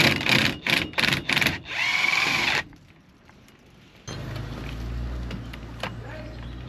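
Sharp metal knocks, about three a second, from tools working on seized hub bolts, then a short whirr. After a pause comes a steady low hum.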